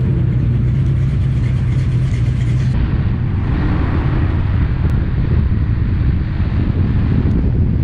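A muscle car's stroked V8 rumbles steadily at low revs as the car pulls away. About three seconds in, this gives way to the rough rumble and wind rush of a moving car on the road.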